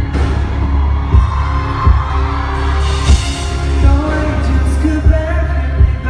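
Live pop band music at concert volume: a heavy bass drum hits roughly once a second over a deep, steady bass and sustained synth chords.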